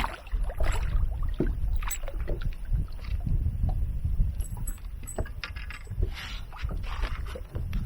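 Wind rumbling on the microphone, with irregular knocks and clicks from handling on a small boat.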